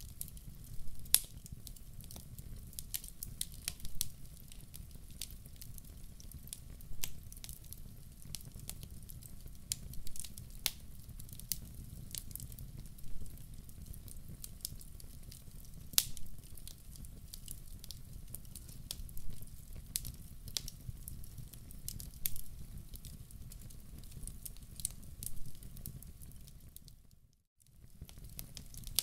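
Wood fire crackling in a fireplace: a steady low rumble of flame with many small snaps and a louder pop every second or two. The sound cuts out briefly near the end.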